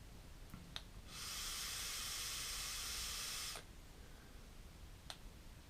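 A puff on a Footoon Aqua Pro rebuildable tank fitted with a new coil: a steady hiss starting about a second in and lasting about two and a half seconds. A few faint clicks come before and after it.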